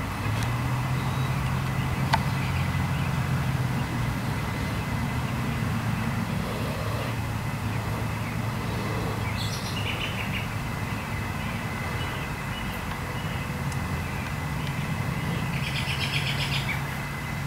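A steady low drone runs throughout, with short bird chirps about ten seconds in and again near the end.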